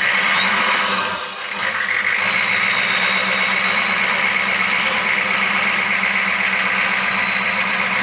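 Jeep monster truck's engine running, with a high-pitched whine that climbs and falls back about a second in, then holds steady.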